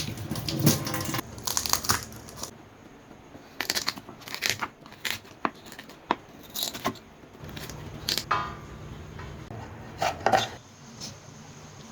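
Kitchen preparation sounds: a rustle and crinkle in the first second or so, then scattered sharp clicks and knocks of utensils and dishes.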